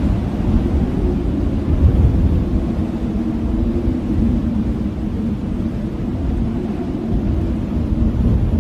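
Strong blizzard wind blowing steadily, a deep rushing rumble with a faint low howl that wavers in pitch.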